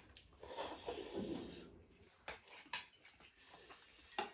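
Quiet eating sounds: soft mouth and chewing noises, then a few light clicks of cutlery or fingers against a dish.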